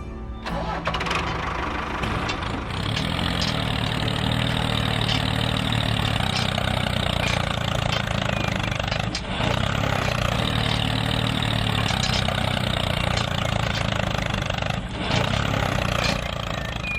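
An engine running steadily. It cuts in suddenly about half a second in, and a deeper, even hum joins about two seconds later.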